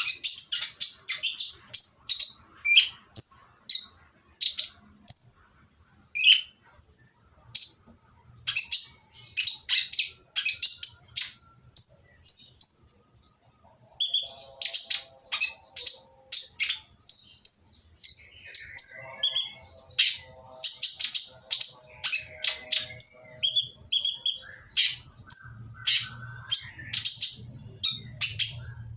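A kolibri ninja (konin) sunbird calling: rapid runs of short, high, harsh chirps and trills, with a short pause about halfway through.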